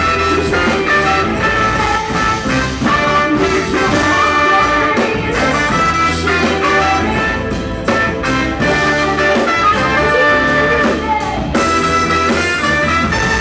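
Live soul band with a horn section playing an instrumental passage, trumpet and trombone lines prominent over drums and bass.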